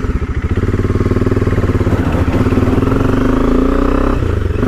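Motorcycle engine running, its pulsing firing note climbing in pitch as it is revved or accelerated, with a brief drop a little after four seconds in before it picks up again.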